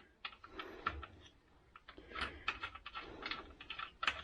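Irregular light clicks and taps, a few a second at first and busier after about two seconds.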